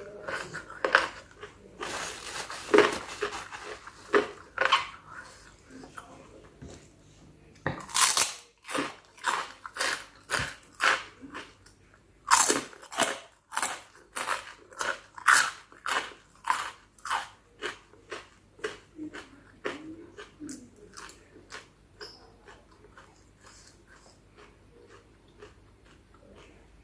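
Close-miked chewing of spicy chicken feet salad: crisp, crunchy bites in a steady rhythm of about two a second, tailing off to quieter chewing over the last few seconds.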